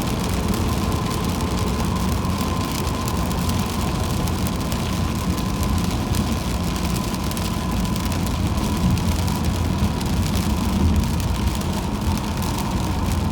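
Car driving on a rain-soaked highway: steady low road and engine rumble with the hiss of tyres and rain, and a faint steady whine over it.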